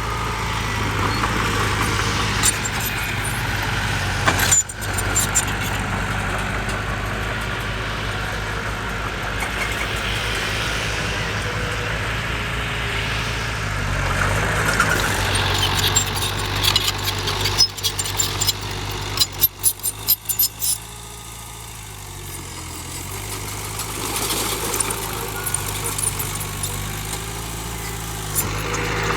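Heavy diesel construction machinery engine running steadily. Past the middle, a run of sharp knocks and clatters.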